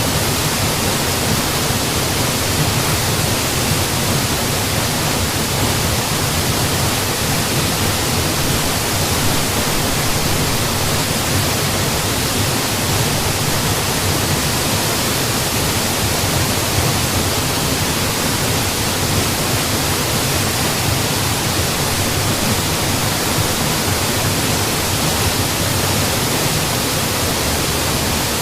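Mountain waterfall: falling water rushing in a steady, unbroken hiss, with no single splashes standing out.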